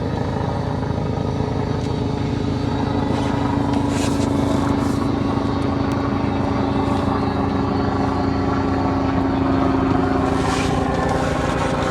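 Boat engine running steadily, with a steady hum that comes in about three seconds in and drops away near the end.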